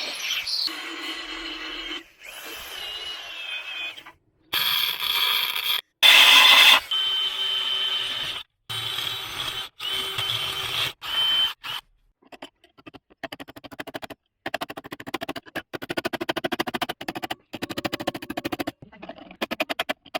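A welder crackling in short bursts a second or so long with brief pauses between them, tack-welding a steel repair patch onto the car body. Before that, about the first twelve seconds are louder, choppy stretches of workshop noise with a steady high whine.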